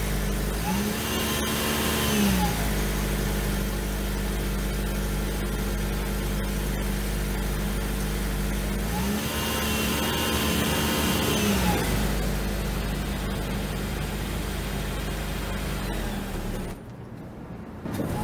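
The 2013 Ford C-Max hybrid's 2.0-litre four-cylinder petrol engine idling and being revved twice: each time the pitch rises smoothly, holds for a second or two and falls back to idle. The sound drops away briefly near the end.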